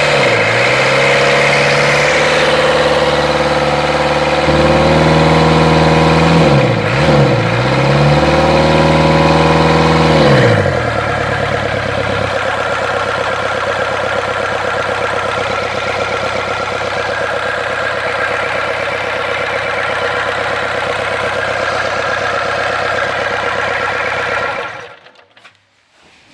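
Reconditioned Mitsubishi 4D32 four-cylinder diesel engine on a test run: it is revved and held at a raised speed, dips briefly and picks up again, then drops back to a steady idle about ten seconds in. It stops abruptly near the end.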